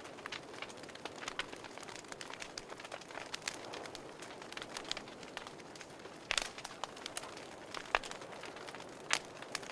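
Wood fire crackling in a fireplace: a steady run of small pops and snaps over a soft hiss, with a few louder pops in the second half.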